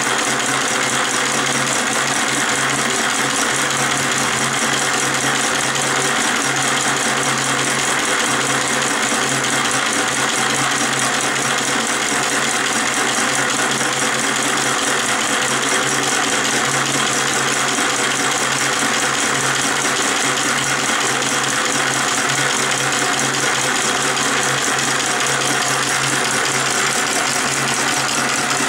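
Small model Stirling hot-air engine running at a steady speed, its moving parts rattling with a fast, even clatter.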